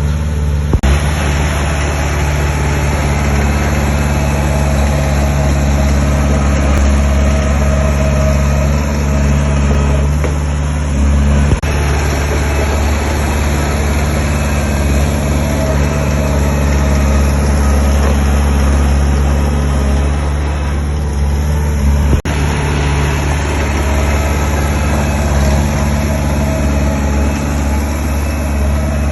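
Heavy diesel engine of construction machinery running steadily, with a few brief sharp clicks.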